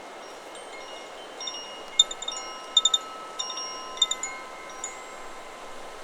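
Chakra Chimes 'Solar Plexus' wind chime swaying in the wind, its tubes struck in a quick cluster of hits in the middle seconds and ringing on in several clear, sustained tones. A steady rush of wind runs underneath.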